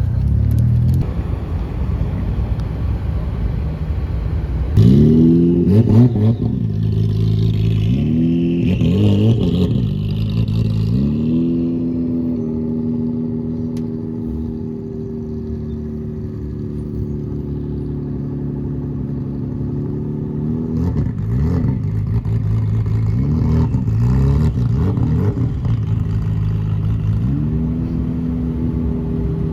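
Car engine accelerating through the gears: its pitch climbs and drops back at each shift, several times in a row. It then holds a steady note, and runs through another set of shifts near the end.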